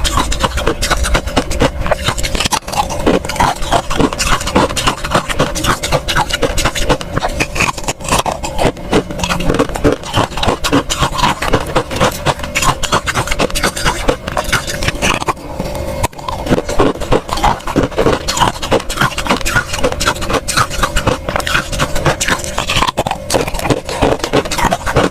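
Close-miked crunching of freezer frost being chewed: a dense, unbroken run of crisp crunches and scrapes, with a faint steady tone underneath.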